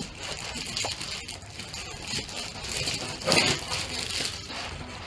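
Packaging being handled: crinkling and rustling of wrapping with light knocks and rattles as an accessory is pulled out of the box, loudest about three seconds in.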